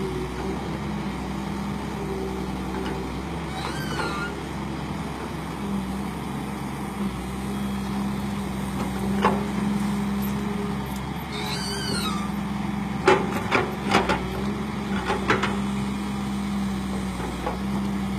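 Excavator diesel engine running steadily, working in the mud, with a few sharp knocks and clanks of the machine in the second half.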